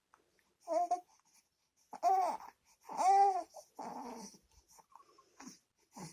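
Baby babbling in a high voice: three loud, drawn-out vowel sounds that rise and fall in pitch, then softer bits of babble.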